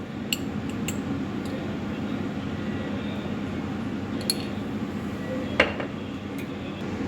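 A handful of light clinks from kitchen utensils and dishes, the loudest about five and a half seconds in, over a steady background hum.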